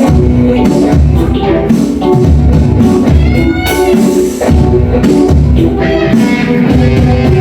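Rock band playing an instrumental passage: electric guitars and keyboard over a steady drum beat.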